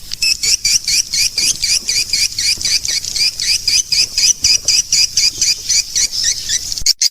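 Swiftlet call sound, the recorded twittering played to lure swiftlets into a nesting house: a fast, even run of high chirps, about six a second. Near the end it breaks off briefly and turns to sharper clicking chirps.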